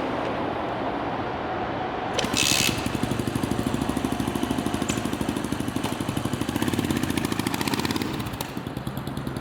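Single-cylinder motorcycle engine running with an even, regular pulse, about six to eight beats a second. A short loud hiss comes about two seconds in, and the pulse fades near the end.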